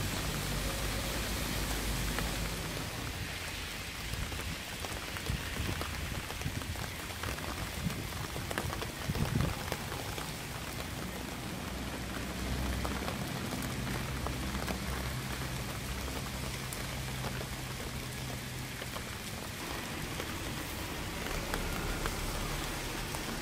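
Steady rain falling, with individual drops tapping sharply over the even hiss, a few louder ones a little before the middle, and a low rumble underneath.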